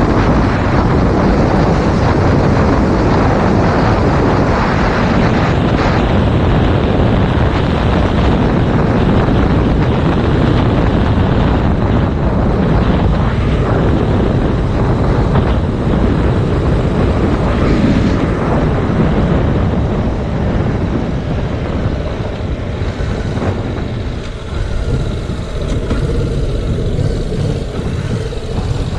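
Heavy wind buffeting on the action camera's microphone while riding a Yamaha MT-07, with the 689 cc parallel-twin engine running underneath. The wind eases in the last few seconds, letting the engine note come through more plainly.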